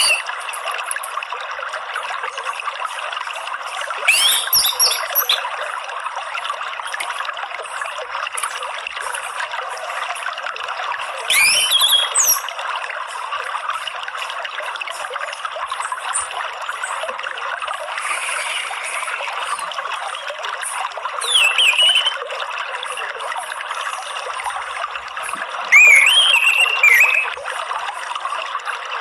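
Water trickling steadily, with an orange-headed thrush giving four short bursts of quick, slurred whistled song phrases.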